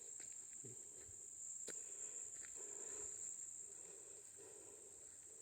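Steady high-pitched drone of insects, crickets or similar, with a single sharp click about two seconds in. Through the second half comes a faint, low, wavering sound of unknown source, which the walker calls a demon.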